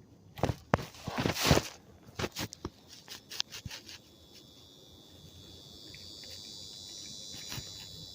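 A run of sharp clicks and knocks in the first few seconds, like handling of gear. About four seconds in, a steady high-pitched insect buzz or trill starts and keeps going.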